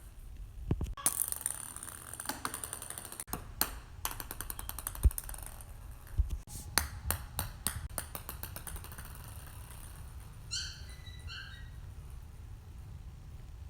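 Light clicks and ticks of a small ball bouncing on a hard floor, including a run of quick bounces that come faster and faster as it settles. About ten seconds in there is a brief high-pitched whine.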